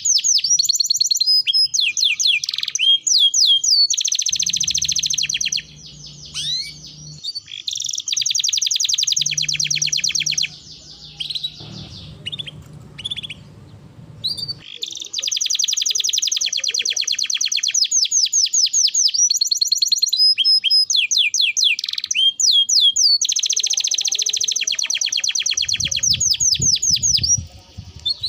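Domestic canary singing: long, rapid rolling trills of several seconds each, broken by short pauses and slurred gliding notes.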